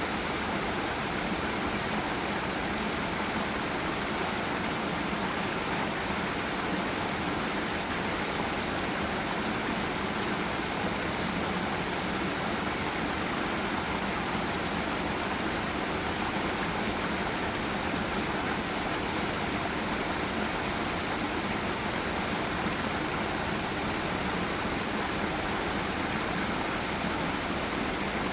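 Forest river rushing over a small waterfall: a steady, unbroken wash of water noise.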